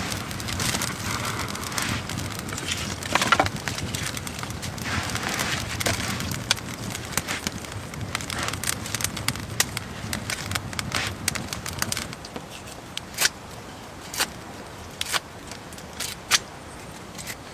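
Irregular crackling of wood, dense at first and then thinning after about twelve seconds to a handful of separate sharp snaps.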